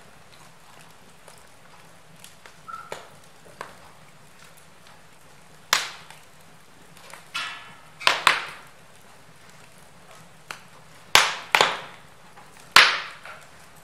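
Wood fire crackling in a fireplace: irregular sharp pops and snaps, several loud ones in the second half, over a faint steady hiss.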